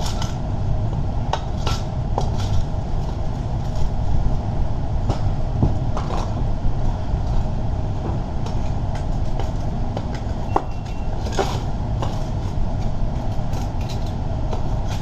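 Scattered metal clinks, knocks and scrapes over a steady low rumble.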